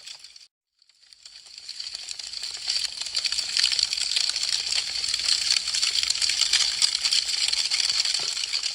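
Wood fire crackling: a dense, rapid stream of small snaps and pops from burning branches. It cuts out briefly just after the start, fades back in over a couple of seconds and fades down near the end.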